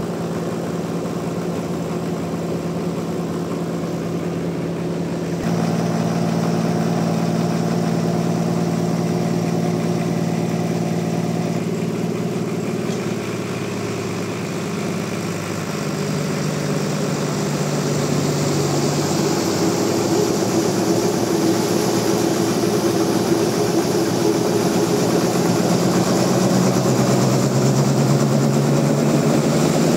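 Sawmill machinery running: a motor's steady hum that steps up about five seconds in and shifts pitch several times, with a hiss that builds through the second half.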